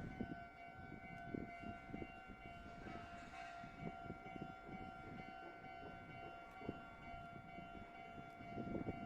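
Level crossing warning alarm sounding as one steady electronic tone, over a low rumble with scattered knocks.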